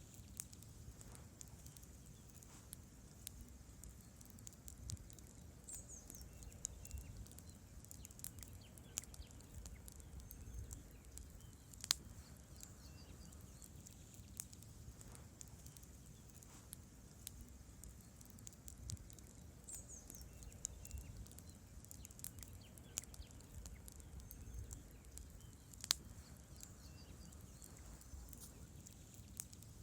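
Wood campfire burning: a low steady rumble of flames with scattered crackles and snaps from the logs, two of them sharp pops, one near the middle and one near the end.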